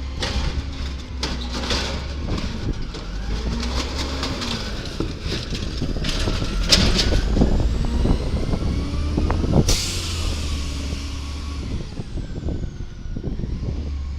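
Garbage truck engine running and revving, its pitch rising and falling, with repeated clanks and knocks. About ten seconds in comes a sudden hiss of air, like an air brake being set, which fades away.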